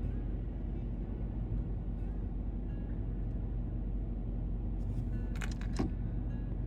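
A car driving, heard from inside the cabin: a steady low rumble of engine and road noise, with a few sharp clicks about five seconds in.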